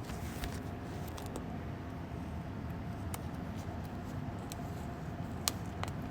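Steady low running hum of an airbrush air compressor, with scattered light clicks and one sharper click about five and a half seconds in.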